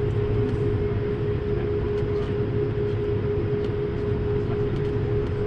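Steady in-flight cabin noise inside an Airbus A220-300: the rumble of its Pratt & Whitney PW1500G geared turbofan engines and rushing air, with a constant whining tone riding over it.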